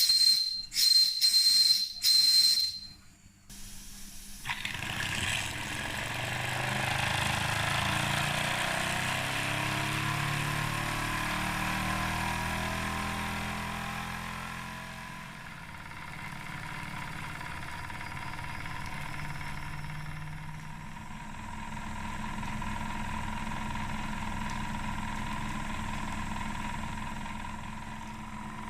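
Wilesco D20 toy steam engine: its steam whistle gives about three short, loud blasts, then the engine runs steadily with a continuous hiss of steam.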